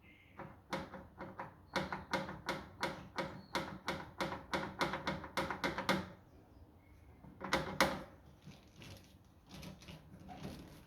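Rapid series of sharp metallic clicks, about three a second for some five seconds, then a shorter burst a couple of seconds later: hand tools working on bolts on a tractor.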